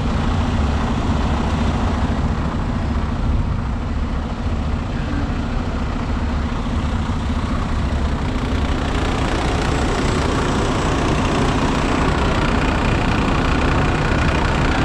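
Heavy truck's diesel engine idling steadily close by.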